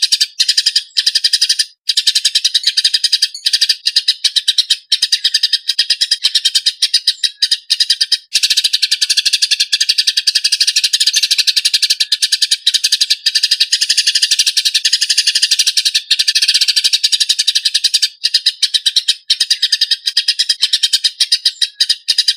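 Eurasian tree sparrows giving fighting calls: fast, dense, harsh chirping that runs almost without a break, with only a few brief gaps.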